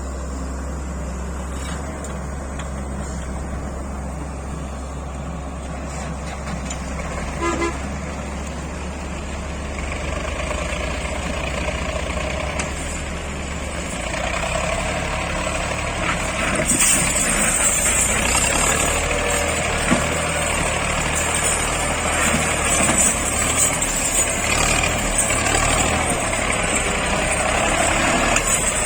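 Tractor engine running steadily, with a short high-pitched toot about seven seconds in; from about halfway the engine grows louder and rougher, with added hiss.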